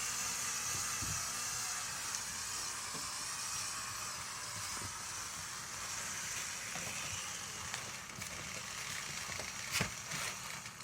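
Lego Technic tractor's electric motors and gear train whirring steadily as it drags the weighted pull sled. The sound slowly weakens, a few clicks come near the end, and then it cuts out: the tractor has run out of power under the load.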